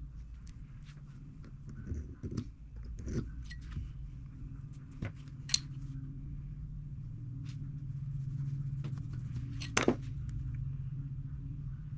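Scattered light metallic clicks and clinks of small steel parts and tools being handled over a steady low machine hum. The loudest clinks come about five and a half seconds in and near ten seconds.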